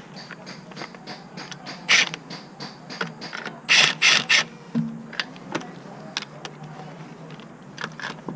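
Ratchet wrench clicking in short runs as fasteners are worked, with a few louder short bursts about two and four seconds in.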